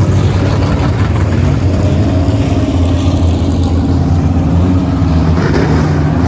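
Race car engine running steadily, a loud continuous engine drone.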